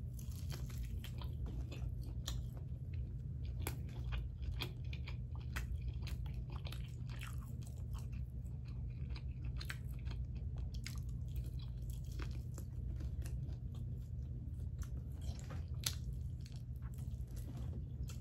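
Close-up chewing and biting of a sauced bone-in chicken wing, with irregular crunchy clicks all through, over a steady low hum.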